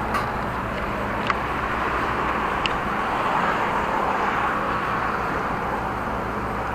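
Steady noise of riding a bicycle: wind and road rumble on the moving camera. Three short sharp clicks come in the first three seconds.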